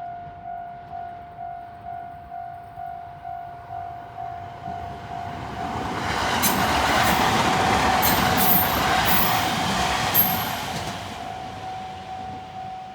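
Japanese level-crossing warning bell ringing steadily about twice a second while a JR 701 series electric train passes, its noise building from about five seconds in with wheels clacking over rail joints, loudest around the middle, then fading away as the bell keeps ringing.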